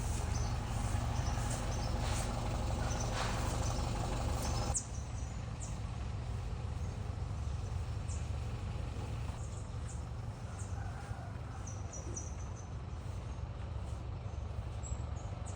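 Small birds chirping in short, high calls over a steady low rumble. The rumble and a faint steady hum drop away abruptly about five seconds in, leaving the chirps over a quieter background.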